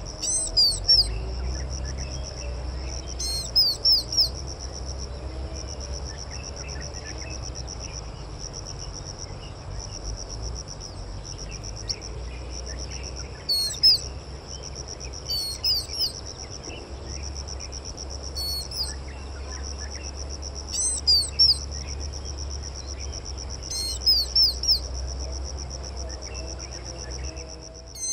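A wild songbird calling in short bursts of two or three sharp, high, quickly falling notes every few seconds, over a steady, high, insect-like trill, with a low rumble underneath.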